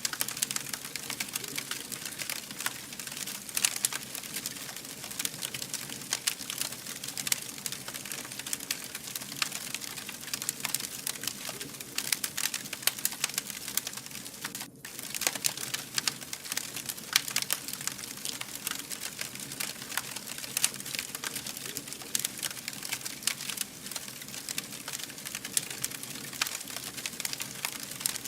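Wood fire burning, with dense, irregular crackles and pops over a steady hiss; the sound briefly dips about halfway through.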